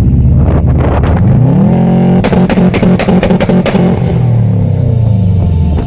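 Car engine revved: the pitch climbs about a second in, holds high with a string of sharp crackles, then drops back.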